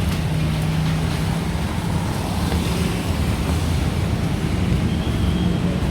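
Road traffic: motor vehicle engines running steadily with a constant low hum under a wash of street noise.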